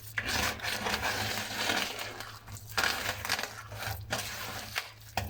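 Hand squeezing and working a batter of melted butter, sugar and egg in a bowl, in irregular strokes with brief pauses.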